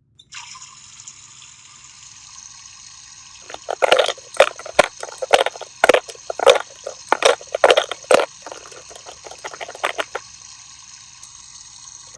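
Water running steadily from a toy kitchen sink's faucet, with a stretch of loud, irregular splashing in the middle as things are moved about in the water. The flow cuts off suddenly at the end.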